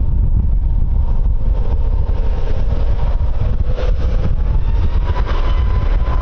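Loud wind buffeting the microphone over the rumble of a jet airliner's engines. A faint engine whine slowly rises in pitch through the second half.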